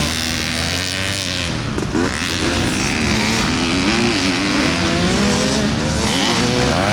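Dirt bike engines revving on a motocross track, their pitch rising and falling over and over as riders work the throttle and shift, with a rising sweep near the end.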